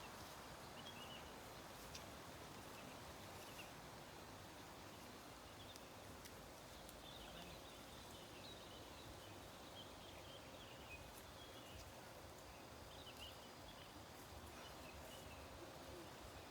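Near silence: faint outdoor hillside ambience with scattered, short high chirps from small animals.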